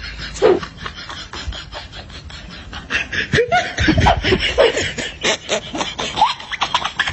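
A person laughing in snickers and chuckles, mixed with many short clicks and knocks.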